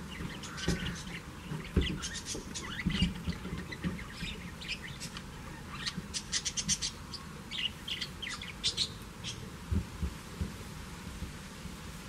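Small birds chirping in quick runs of short notes, over soft thumps and scuffs of a goat kid's hooves climbing on a crouching man's back.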